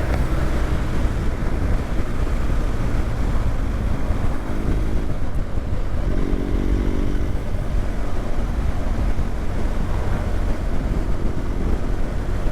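BMW GS boxer-twin motorcycle being ridden at road speed, its engine running under steady wind rumble on the microphone. The engine note stands out more clearly for a second or so about six seconds in.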